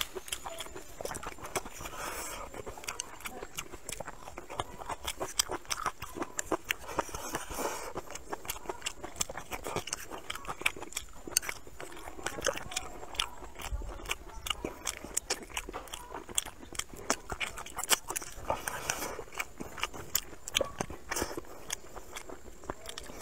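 Eating sounds: a man chewing and smacking mouthfuls of rice and soft fermented tofu, making many small wet clicks throughout.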